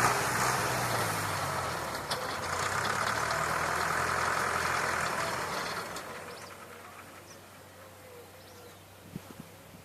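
Massey Ferguson 275 tractor's four-cylinder diesel engine running steadily, then falling away about six seconds in to a faint low running. The fuel lift pump is failing, by the owner's account.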